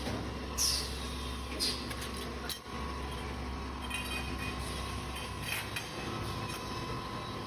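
Automatic copper tube end forming and flattening machine running with a steady hum, broken by short falling hisses of air from its pneumatic cylinders about a second apart, a sharp click near three seconds in, and another fainter hiss later.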